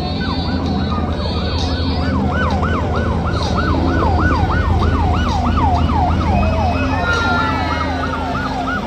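Electronic emergency-vehicle siren on a fast yelp, its pitch sweeping up and down about three times a second, changing near the end to a steadier held tone that fades out. A steady low rumble runs underneath.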